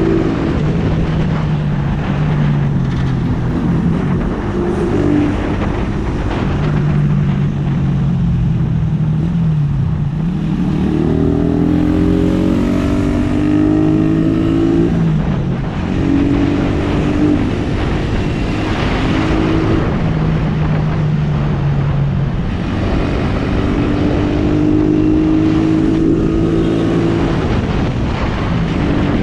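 Suzuki Raider R150's single-cylinder four-stroke engine under way, revs climbing and dropping several times as the rider accelerates, shifts and eases off, over steady wind and road noise.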